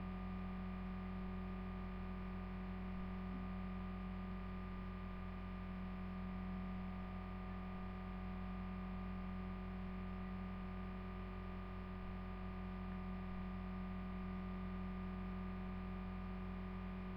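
Steady electrical hum: one strong low tone with several fainter higher tones above it, without any change.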